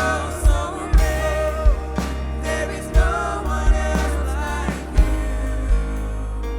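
Live worship band playing: singers' voices over drums, bass guitar and piano, with a kick drum beating steadily. The drum hits drop out near the end, leaving a held chord.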